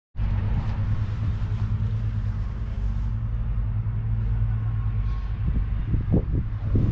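JCB Fastrac 3220 tractor's 5.9-litre six-cylinder diesel engine running steadily. About five seconds in, the sound turns rougher and more uneven.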